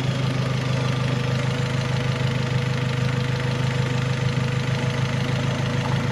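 Turbocharged Honda H-series four-cylinder VTEC engine in a Civic idling steadily, warmed up with its thermostat open.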